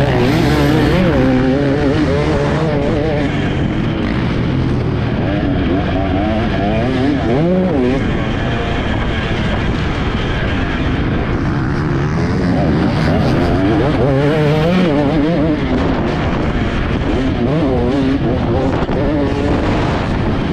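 Dirt bike engine being ridden hard, its pitch repeatedly climbing as it revs up and dropping off as the throttle is rolled off or it shifts.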